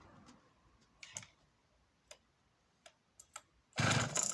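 A few light clicks of handling the saw, then near the end the Jonsereds 621's two-stroke engine fires on full choke from a cold start, loud and sudden.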